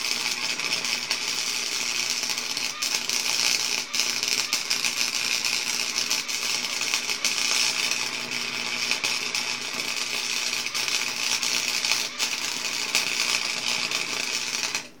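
Electric arc welding on the spider gears of a lawnmower differential: a steady crackling, sizzling arc with a thick spatter of fine pops, which cuts off suddenly near the end as the weld stops.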